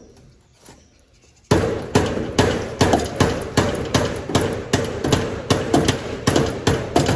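Rapid, even hammer blows on metal, about two and a half a second, starting about a second and a half in, each with a short ringing note.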